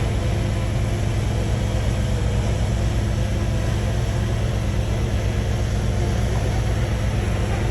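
A bulldozer's diesel engine running steadily at a constant speed, with a heavy low hum.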